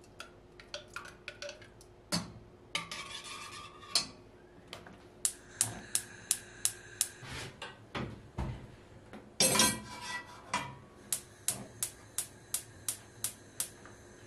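Dishes and cutlery being handled: a string of sharp clinks and knocks, with a brief louder clatter about nine and a half seconds in.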